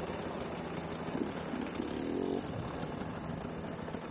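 Dirt bike engine running steadily at low speed, with a brief higher pitched sound about a second or two in.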